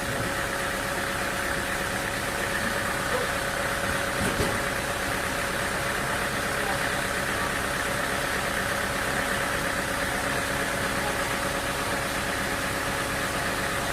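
Sawmill machinery running steadily, an engine-driven hum with a constant tone.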